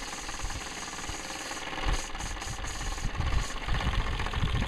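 Steam hissing steadily from the boiler of a c.1958 Mamod SE2 model steam engine as pressure is let off, over irregular low knocking.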